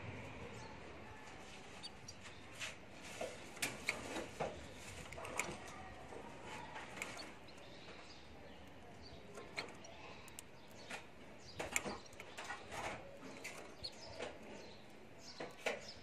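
Birds chirping in short, irregular calls.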